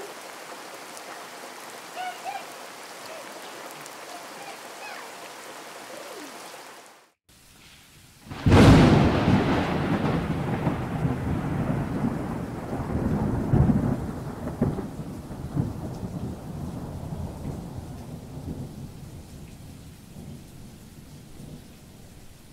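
Steady rain, then a third of the way in a sudden loud clap of thunder that rolls on and slowly fades over about ten seconds.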